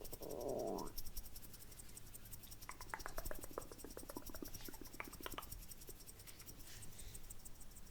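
Close-miked ASMR mouth sounds: a short wet smacking sound at the start, then a run of quick wet tongue-and-lip clicks from about three to five and a half seconds in.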